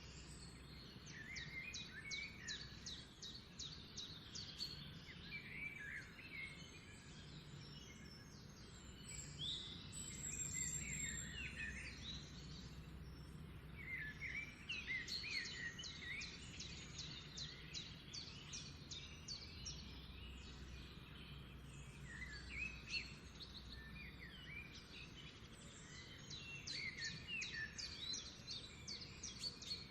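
Songbird singing: bursts of rapid, high trills and chirps repeated every few seconds, over a low steady background hum.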